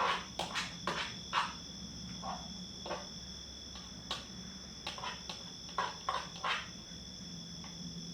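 Night insects such as crickets trilling steadily in two high, even tones over a faint low hum. Irregular short taps and flutters come through on top of them, about a dozen in all, thickest in the first half and again around six seconds in.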